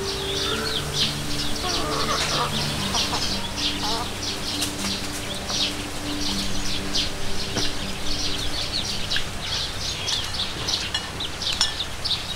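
Birds chirping rapidly and continuously, over low held tones that change pitch every second or so.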